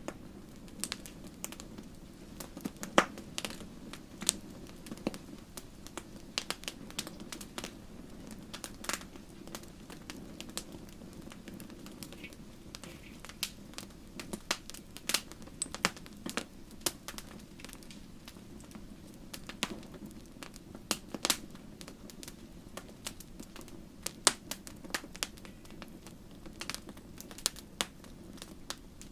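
Wood fire crackling and popping in a fireplace: irregular sharp pops, several a second at times, over a steady low rumble of the burning flames.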